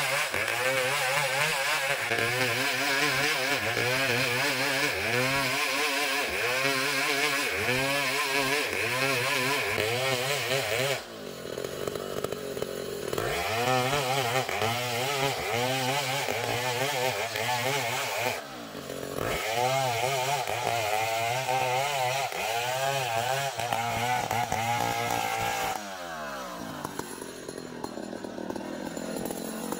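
Engine-driven saw cutting into an ulin (Borneo ironwood) log, its pitch dipping and recovering about once a second as it labours under the load. It eases off briefly near the middle, and a few seconds before the end it falls away to a lower, steadier run.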